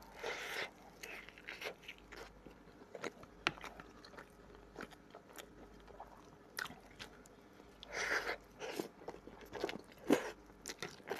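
A person eating close to the microphone: biting and chewing fried fish and a spoonful of grain, with small wet mouth clicks throughout and a few brief louder smacks, near the start and twice near the end.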